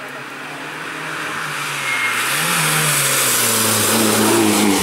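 Rally car engine approaching, growing steadily louder, with the revs rising and falling once about halfway through.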